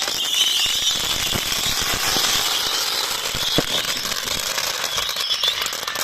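Fireworks crackling: a dense, fast stream of small pops and crackles over a hiss, steady in level.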